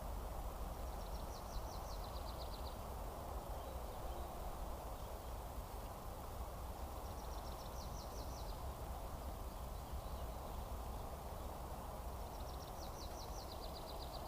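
A small songbird sings a short trill of quick high notes that steps down in pitch, three times about six seconds apart, over a steady outdoor rush and low rumble.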